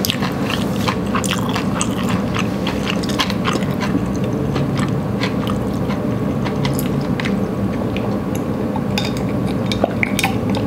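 Close-miked chewing and mouth sounds of someone eating udon noodles: irregular wet clicks and smacks, with sips of water in the second half, over a steady low background hum.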